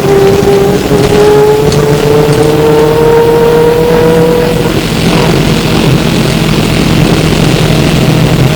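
Flyer E902 trolleybus's electric traction drive whining and rising steadily in pitch as the bus accelerates, heard from inside the bus. About four and a half seconds in the whine stops and the bus's steady running and road noise carries on.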